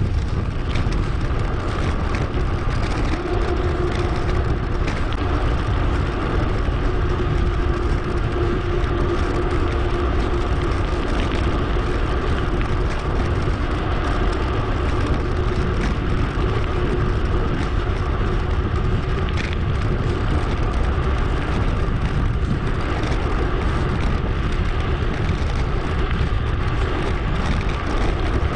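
Steady wind rush on an action camera's microphone during a bicycle ride, mixed with tyre and road noise from the moving bike, sped up.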